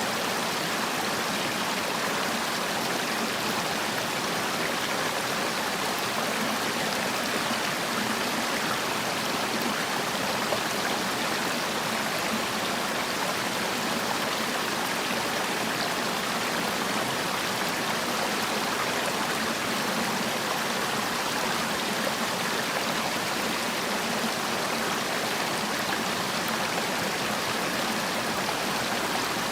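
Mountain stream water rushing and splashing over rocks: a steady, even rush of running water.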